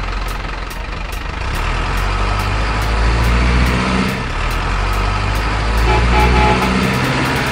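Heavy truck engine running with a steady low hum, the revs swelling twice.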